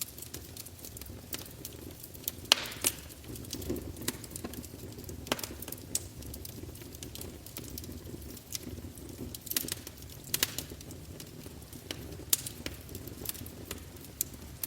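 Wood fire of burning logs crackling, with a steady low rumble of flame and frequent irregular sharp pops, the loudest two close together about two and a half seconds in.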